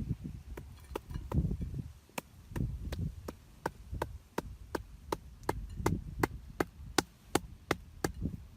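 Rhythmic chopping, sharp strikes about three a second, with dull low thuds beneath them.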